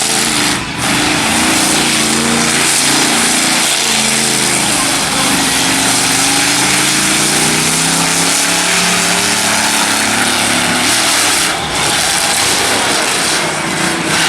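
Monster truck engine running hard and revving, its pitch rising and falling, over a loud rushing noise. It dips briefly near the start and again about two-thirds of the way through.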